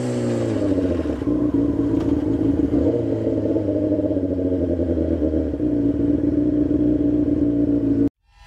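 Sport motorcycle engine running at a steady speed, its pitch settling after a drop just before and holding level; it cuts off suddenly near the end.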